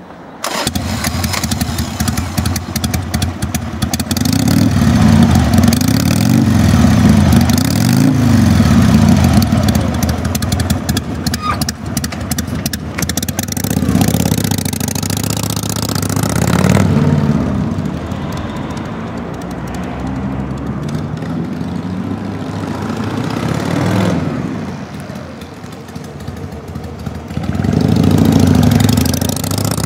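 1998 Harley-Davidson XLH883 Sportster's 883 cc Evolution V-twin starting right at the outset, then idling and being revved repeatedly, its pitch rising and falling with each blip of the throttle.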